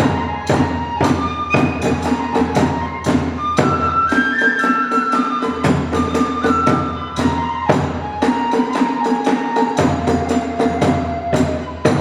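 Hiroshima kagura festival music: a drum struck in quick, steady strokes, several a second, with a flute melody stepping over it.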